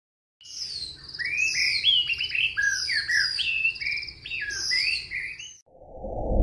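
Bird song: a quick run of varied chirps, gliding whistles and short trills, followed near the end by a low whoosh.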